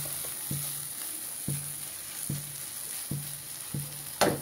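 A thick fish-head masala sizzles in a nonstick frying pan while a spatula stirs it in regular strokes, a little more than one a second. A voice begins right at the end.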